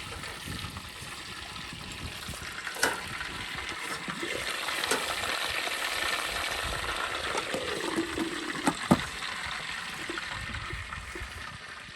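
Food frying in a pan, a steady sizzle with a few sharp clicks.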